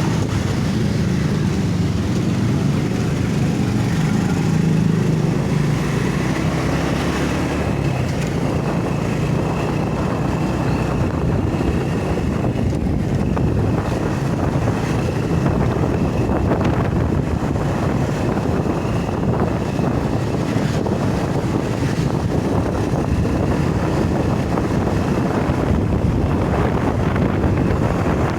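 Wind buffeting the microphone on a moving motorcycle, over the steady drone of the ride's engine and road noise.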